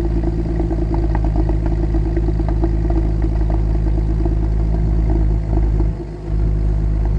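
Mercedes W204 C280's M272 V6 engine running steadily at idle, with a fast, fine ticking over the running. The level dips briefly about six seconds in.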